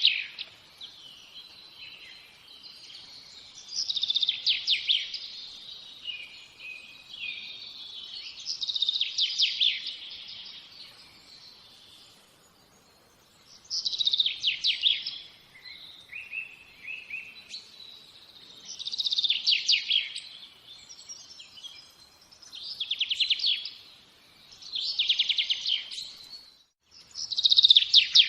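A songbird singing short, rapid trilled phrases, each about a second long and repeated every few seconds.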